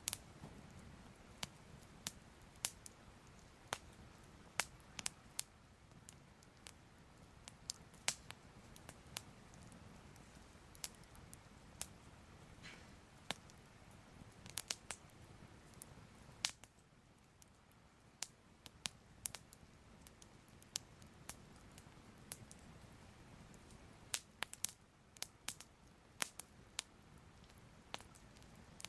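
Soft crackling fire: irregular sharp pops and snaps, a few a second, over a low steady rumble.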